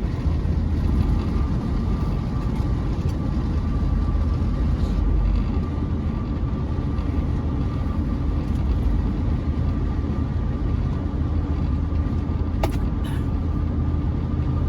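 Steady in-cab road and engine noise of a Chevrolet C10 pickup cruising, a low rumble with a faint steady whine above it. A single sharp click near the end.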